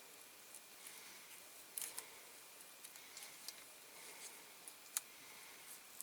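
Faint clicks and ticks of small hand work on a die-cast toy car body, with a few sharper clicks about two seconds in and near the end.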